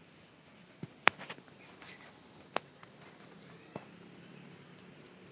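A high, rapidly pulsing trill, like an insect's, runs on steadily, with a few sharp clicks, the loudest about a second in.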